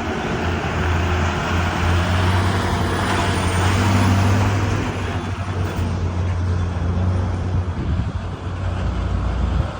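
Motor vehicle engine running at idle with a steady low hum, over a constant rushing noise.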